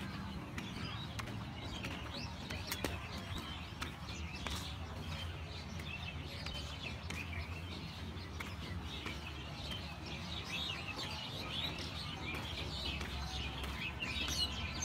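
Many small birds chirping continually, over a low steady rumble.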